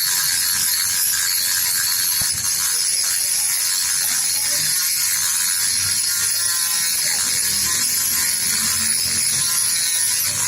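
A machine running steadily with a high-pitched whir.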